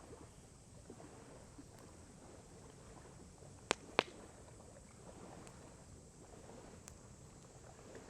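Wood fire burning quietly with faint crackles, and two sharp pops from the burning wood in quick succession near the middle, over the faint lapping of lake water.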